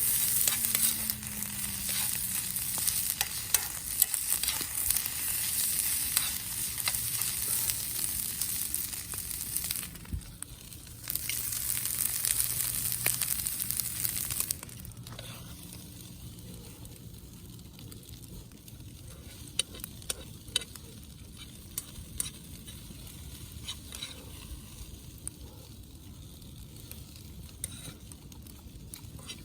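Food sizzling and frying in a pan over a campfire. The sizzle breaks off for about a second around a third of the way in, returns, then dies down about halfway through, leaving faint scattered clicks.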